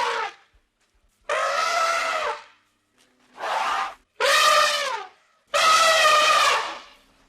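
Elephant trumpeting: four loud, brassy calls, each about a second long, with the pitch bending down at the end of the longer ones.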